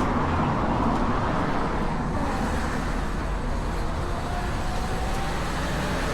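Steady street traffic noise: road vehicles running past.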